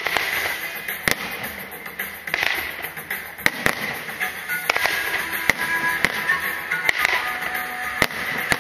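Aerial fireworks bursting overhead: sharp bangs about once a second at uneven intervals, some nearly on top of each other, with music playing underneath.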